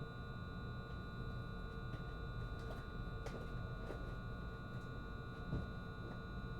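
Steady, fairly quiet hum inside a JR East HB-E210 series hybrid diesel railcar standing still: a constant high-pitched electrical whine from its power equipment over a low rumble, with a few faint clicks.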